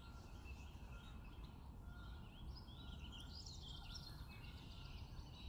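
Faint bird chirps in the background over a low, steady noise floor, clustered about halfway through.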